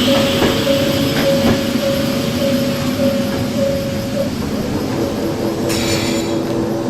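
Hakone Tozan Railway electric train running slowly into a station, with a pulsing tone that stops about four seconds in, a lower steady tone after it, a few wheel clicks over rail joints, and a short hiss near the end.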